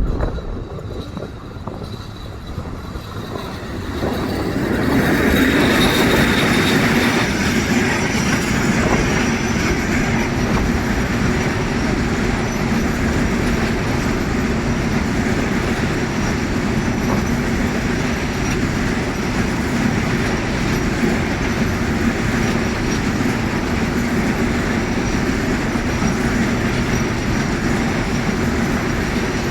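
A train running past on the rails, its wheels and cars making a steady rumbling noise that swells about four seconds in and then holds for the rest of the pass.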